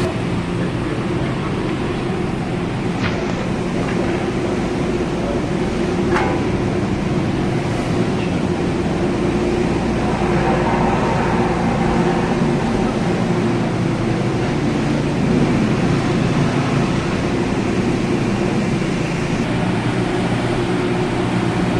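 Diesel construction machinery working on a railway platform, its engine running with a steady low drone, with a couple of sharp knocks about 3 and 6 seconds in.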